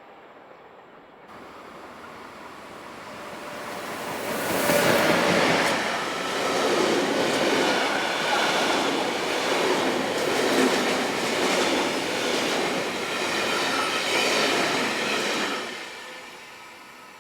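Rushing noise of a passing vehicle that swells over a few seconds, stays loud for about ten seconds, then fades away near the end.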